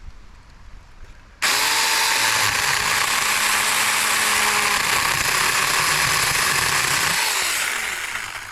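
Supstable 6-inch cordless mini chainsaw, battery-powered on 21 volts, starts suddenly about a second and a half in and runs at full speed, cutting through a shrub branch with a dense rattling chain noise. Near the end the trigger is released and the motor winds down with a falling whine.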